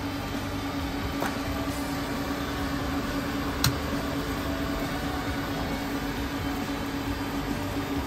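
RV range hood fan running with a steady hum and hiss. Two sharp clicks cut through it, a light one about a second in and a louder one nearly four seconds in.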